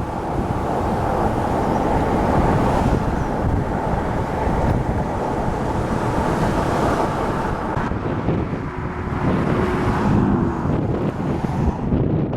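Strong wind from a supercell's rear-flank downdraft rushing over the microphone: a loud, continuous rush, heaviest in the low end, easing slightly near the end.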